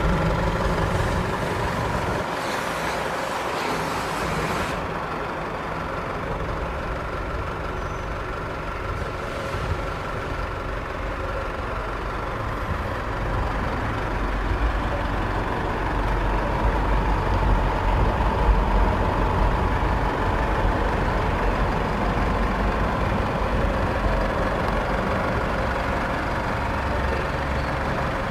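Isuzu D-Max's 2.5-litre twin-turbo four-cylinder diesel idling steadily, a low even rumble.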